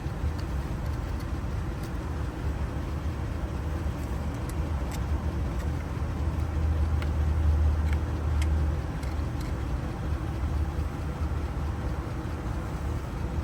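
Low, steady engine-like rumble that swells for a few seconds in the middle, with a few faint small clicks scattered through it.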